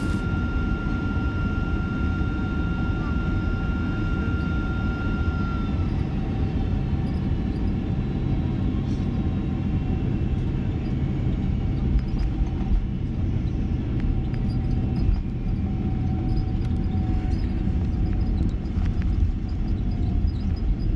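Boeing 767-300ER cabin noise: a steady low rumble of engines and airflow heard from inside the cabin, with a thin steady whine that stops about six seconds in and a few short bumps around twelve seconds in.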